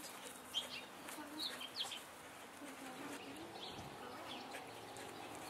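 Faint bird chirps: a few short, scattered high calls.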